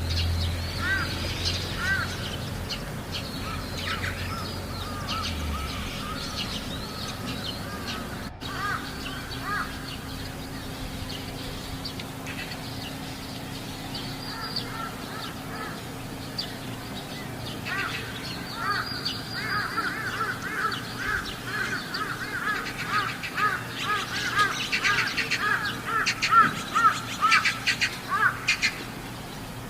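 Crows cawing: short, harsh calls repeated in quick runs, sparse at first and coming thick and fast in the second half.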